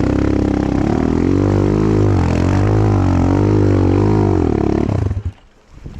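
Enduro motorcycle engine revving hard in first gear, pitch rising and falling over and over as the rear wheel spins in the mud without grip, then cutting off suddenly about five seconds in.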